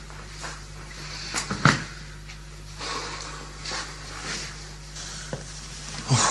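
A few scattered knocks and clicks, like household handling sounds, the loudest about one and a half seconds in and another near the end, over a low steady hum.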